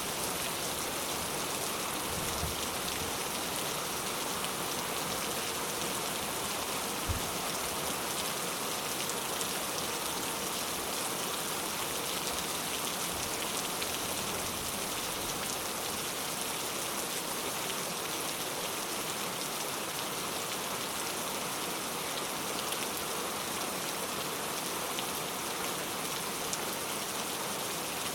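Steady rain falling on a surface, a dense even patter with no let-up. A single brief low thump about seven seconds in.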